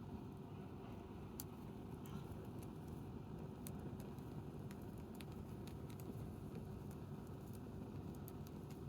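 Wood campfire crackling: scattered faint snaps and pops, a few a second, over a steady low background rumble.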